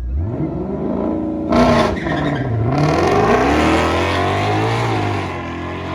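Drag-race car launching and accelerating hard, its engine pitch climbing, with a brief loud burst of noise about a second and a half in. The pitch drops at a gear change about two seconds in, then climbs again.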